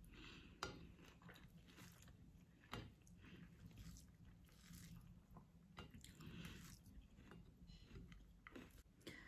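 Faint chewing of rice khichuri eaten by hand, with a few soft clicks spread through.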